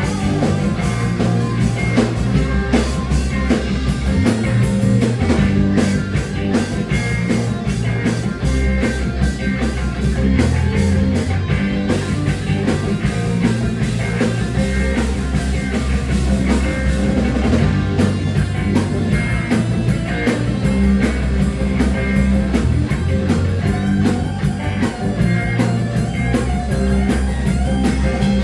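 Rock music with electric guitar and a drum kit, playing steadily.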